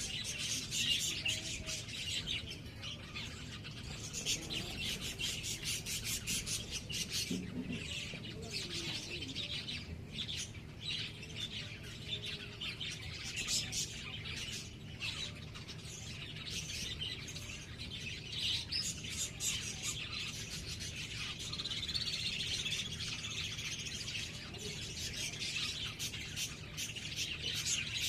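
Small birds chirping, a dense, continuous chatter of rapid high-pitched chirps.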